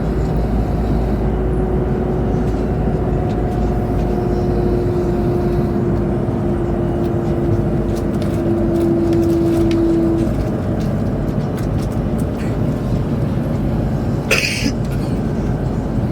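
Cabin noise of a high-speed train running at speed: a steady low rumble and rushing hiss. A steady hum sits over it and cuts off about ten seconds in, and a single short sharp knock comes near the end.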